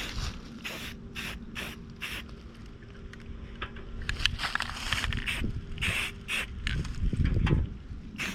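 Rust-Oleum aerosol spray paint can spraying in short hissing bursts, several a second, with a couple of longer sprays near the middle.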